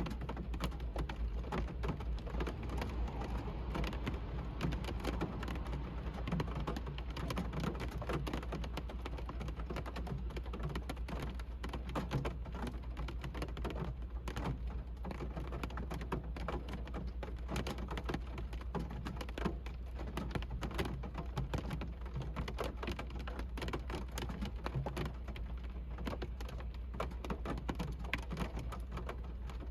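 Rain falling on a car, heard from inside the cabin: a dense, steady scatter of sharp drop ticks over a constant low hum.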